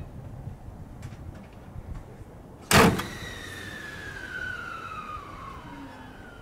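Toei 10-300 series commuter train standing at the platform with its doors just closed: about three seconds in, a short loud burst of air hiss, then a whine that falls steadily in pitch over the next few seconds.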